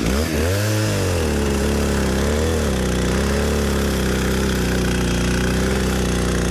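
Chainsaw on an Alaskan chainsaw mill, revving up and down briefly, then running at a steady pitch under load as it cuts through a pecan log.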